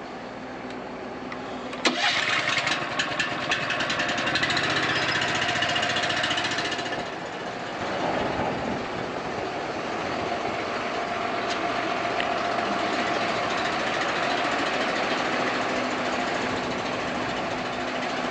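Pump starting with a sharp click about two seconds in, then running steadily with water rushing through the fill valves and rinser into the sprayer tank; the sound shifts about seven seconds in as the flow changes.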